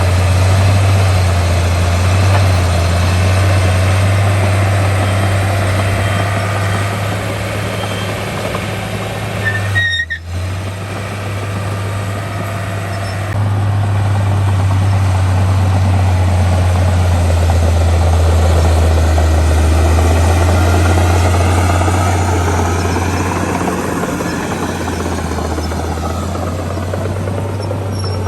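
Heavy diesel earthmoving machinery running steadily with a deep engine drone, broken briefly about ten seconds in.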